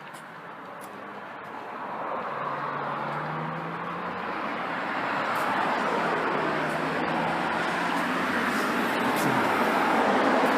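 Road traffic noise: a passing vehicle's tyre and engine sound, growing steadily louder.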